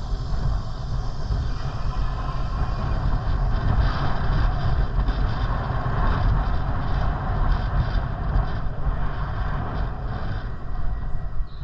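Wind buffeting the microphone of a camera on a moving bicycle: a steady, rushing rumble.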